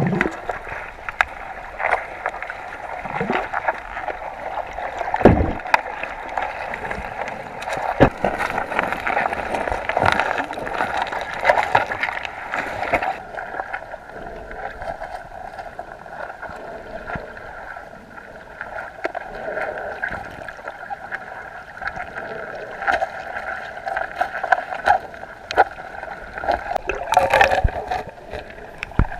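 Mountain stream water recorded underwater by a GoPro: a muffled, steady rushing and gurgling, with scattered clicks and knocks. The sound shifts about halfway through.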